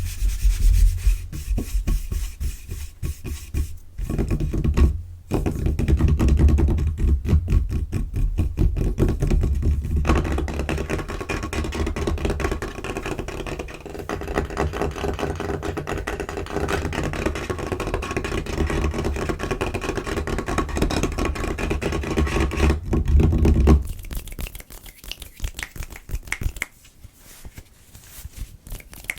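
Fast, aggressive fingertip tapping and scratching on a tabletop: a dense, rapid run of taps with heavy low thuds. About 24 seconds in it drops to quieter, scattered taps and scratches.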